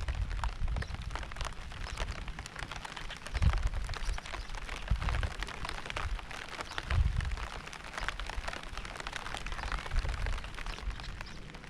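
Steady rain falling, a dense patter of drops, with irregular low rumbles swelling up every few seconds.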